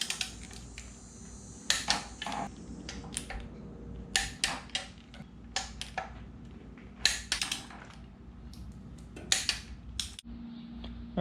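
Hand tools and metal parts clinking and clicking irregularly during wrench work on the exhaust studs and nuts of a Ford 5.4L 3-valve V8 cylinder head, about a dozen sharp metallic strikes.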